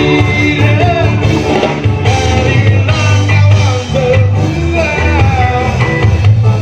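Band playing a rock song, a singer's voice over bass and guitar.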